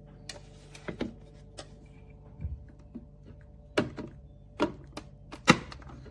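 A series of about ten irregular sharp clicks and knocks, the loudest about five and a half seconds in, over a faint steady hum.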